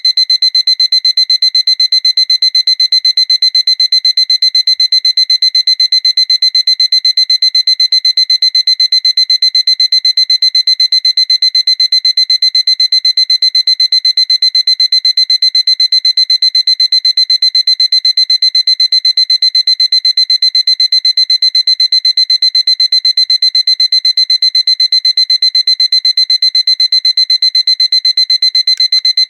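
Seiko alarm clock's electronic alarm going off: a continuous run of rapid, evenly spaced high-pitched beeps on one steady tone.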